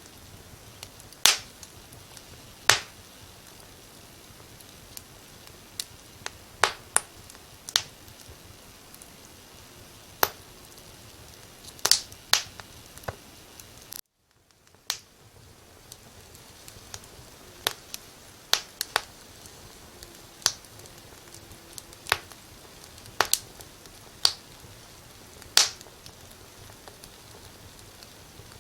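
Wood fire crackling: sharp, irregular pops and snaps over a faint steady hiss. About halfway through the sound cuts out for a moment and then fades back in.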